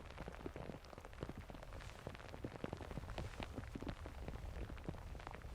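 Rain falling, its drops tapping irregularly and thickly on a nearby surface over a low rumble.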